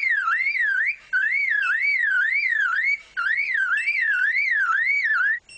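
Male superb lyrebird mimicking a car alarm: a loud electronic-sounding siren warbling up and down about three times a second, with brief breaks about one and three seconds in, stopping just before the end.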